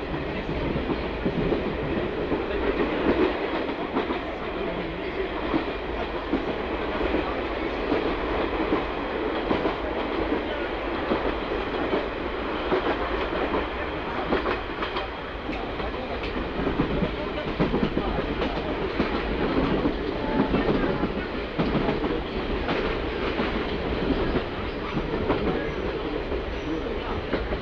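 JNR KiHa 46 diesel railcar running along the line: a steady rumble of engine and running gear, with wheel clicks over rail joints at irregular intervals.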